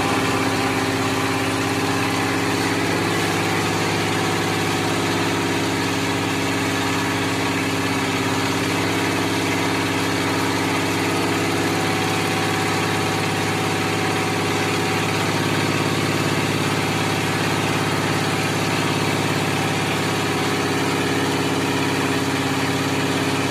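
Hydraulic power unit of a plastic-bottle baling press running with a steady hum, a faint higher tone joining it about halfway through.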